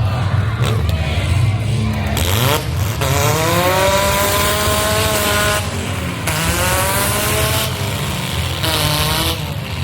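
Demolition derby cars' engines running hard and revving. Three times a high pitched whine rises and then holds for a second or two.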